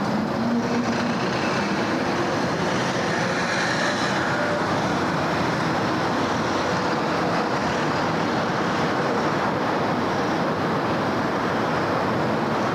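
Steady city road traffic: a continuous wash of cars and tyres passing on busy streets, with faint engine hums and whines rising briefly within it.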